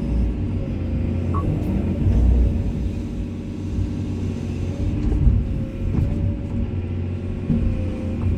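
Komatsu excavator's diesel engine running steadily with a low rumble, a steady whine above it and a few light knocks.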